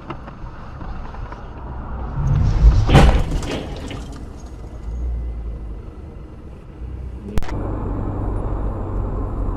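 Car cabin rumble recorded by a dashcam, with a loud, rough burst of noise about three seconds in and a single sharp click a little after seven seconds.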